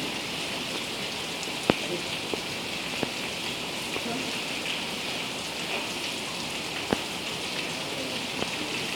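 Heavy rain falling steadily, with a few sharp single taps of drops or drips striking a nearby surface.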